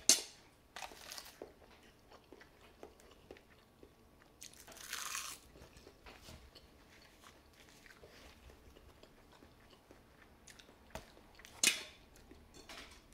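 Close-miked chewing of a mouthful of jajangmyeon noodles and fried egg: soft, wet mouth sounds and small smacks, with a few sharp clicks at the start and near the end and a short breathy hiss about five seconds in.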